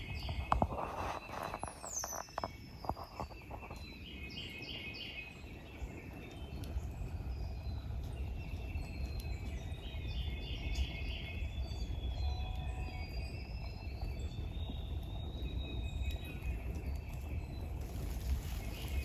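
Songbirds singing in short repeated chirping phrases over a steady low rumble, with a brief rattling burst in the first few seconds.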